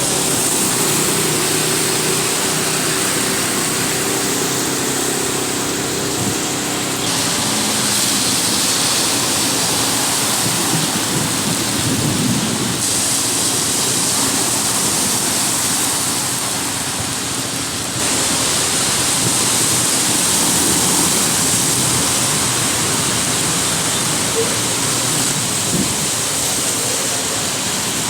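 Heavy rain as a loud, steady rushing hiss, with a faint engine hum under it in the first several seconds. The hiss shifts abruptly in character about seven and again about eighteen seconds in.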